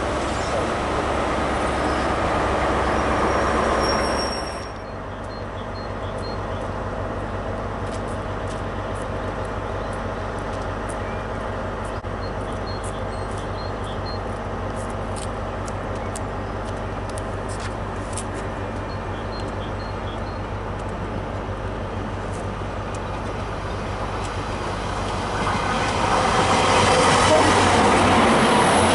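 Train coaches rolling past on the rails, cut off abruptly about four seconds in. Then a high-speed train's diesel power car runs with a steady low hum and a few faint clicks. Near the end a GWR Intercity Express Train passes close by, louder, wheels rumbling on the rails.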